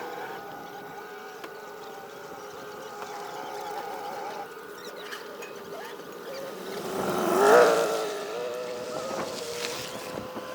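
A vehicle engine running steadily, swelling louder about seven seconds in and then settling, its pitch slightly higher afterwards.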